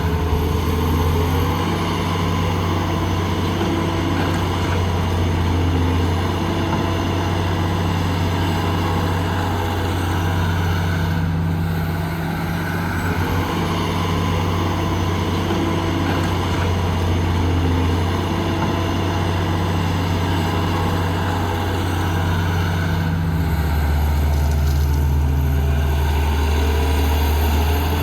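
The diesel engine of heavy construction machinery running with a steady low drone. Near the end the engine note drops lower and grows stronger.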